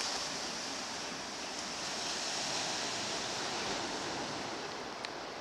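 Sea surf washing onto the shore: a steady rush that swells a little in the middle.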